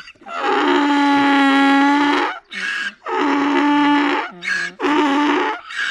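Sad donkey crying sound effect: long, steady, wailing cries, the first about two seconds, the next more than a second, broken by short catching breaths.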